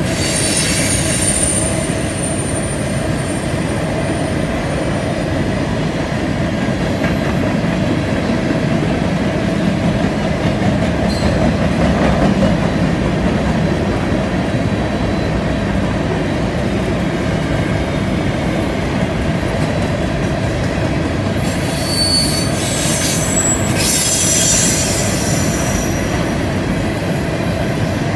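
Covered hopper cars of a long freight train rolling past on a curve, a steady rumble of wheels on rail. High-pitched wheel squeal, from flanges grinding through the curve, rings out in the first few seconds and again about three-quarters of the way through.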